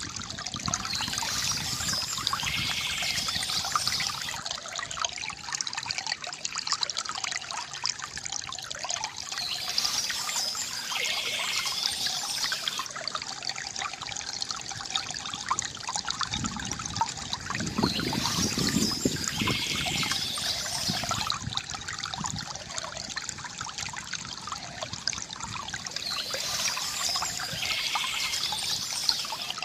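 Water from a bamboo fountain trickling and gurgling steadily, with a brighter surge about every eight to nine seconds.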